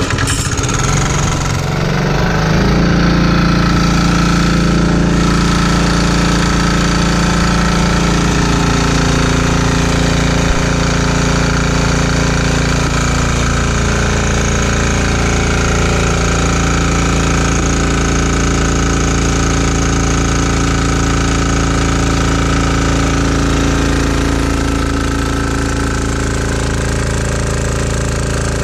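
Single-cylinder 196cc 168F air-cooled diesel engine driving a generator, running loud and steady on #2 diesel under a heater and Variac load. Its pitch settles in the first couple of seconds, then sags slowly as the load is raised.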